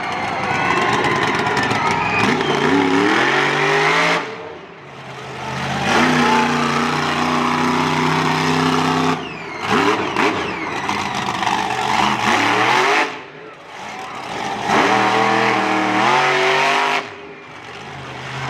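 Monster truck engine revving hard in repeated pulls of about three to four seconds each. The throttle drops off briefly between pulls, as the truck is driven on its wheels for a two-wheel-skills run.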